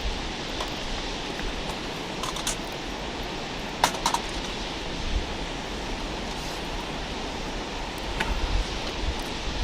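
Wood campfire burning with a steady rushing hiss and a handful of sharp crackles, two pairs in the first half and one more near the end, over a low rumble of wind on the microphone.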